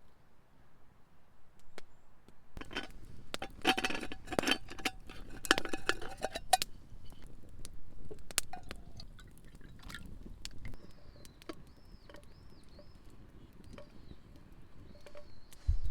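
Small glass or ceramic vessels clinking and knocking, with a dense run of clinks and a brief ringing tone from about two and a half to seven seconds in, then scattered light clicks.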